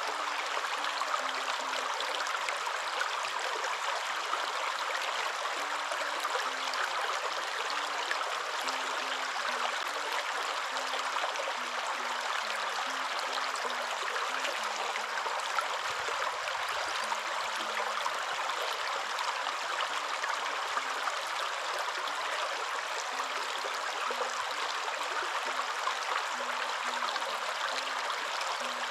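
Waterfall: a steady, unbroken rush of falling water, like white noise, with no pauses or changes.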